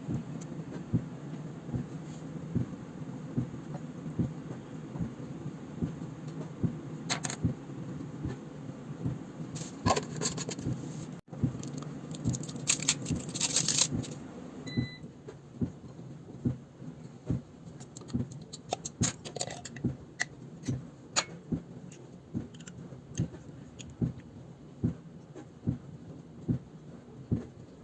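Objects being handled: a long run of light clicks and knocks, with a louder, busier stretch of noise about ten to fourteen seconds in, over a steady low hum.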